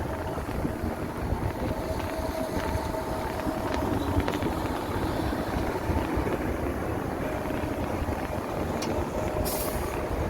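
Wind buffeting the microphone and road noise while riding an electric motorbike, with a faint steady whine that comes and goes. There is a brief hiss near the end.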